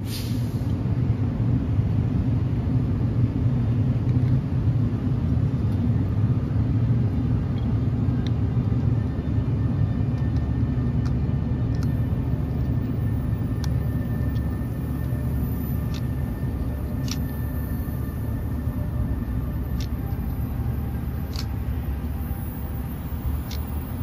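Electric passenger train running on the track as it moves away, a steady low rumble slowly fading. From about halfway on, scattered sharp clicks and a faint thin whine sound over it.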